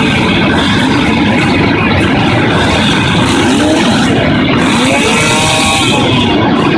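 A pack of motocross motorcycle engines revving and accelerating together, several engine notes rising in pitch at once about halfway through. Loud and distorted.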